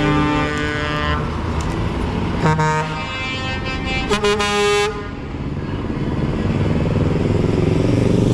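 Truck air horns sounding in two short blasts, about two and a half and four seconds in, over the running of truck engines. A held tone before them stops about a second in, and the engine noise grows louder toward the end.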